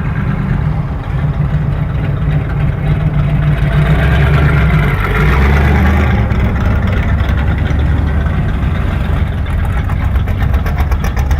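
Car engines running as vehicles drive slowly past one after another. One gets louder as it goes by, about four to six seconds in, and near the end an engine runs with a fast, even pulse.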